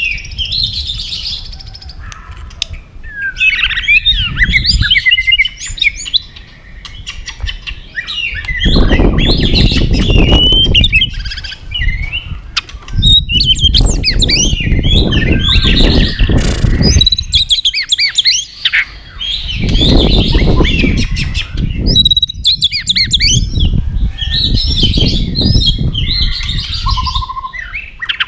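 White-rumped shama singing a fast, varied song of gliding whistles and chirps in quick phrases. From about eight seconds in, four long stretches of loud low noise run under the song.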